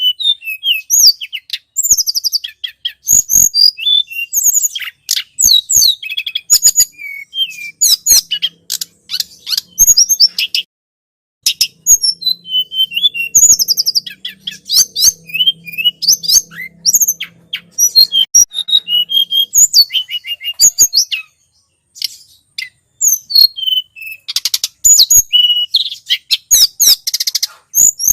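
Tledekan gunung bird call played as a lure recording: fast runs of short, high, sharp chirps and trills, with brief pauses between the runs.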